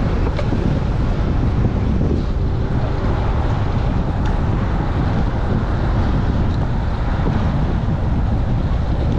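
Strong gusty wind buffeting the microphone of a chest-mounted camera on a moving bicycle: a loud, steady low rumble.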